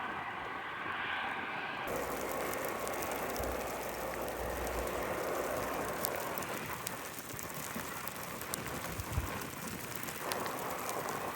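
Jet aircraft engines at an airport. A steady whine runs for about the first two seconds, then after an abrupt change a steady rushing noise takes over, with a low rumble a few seconds later.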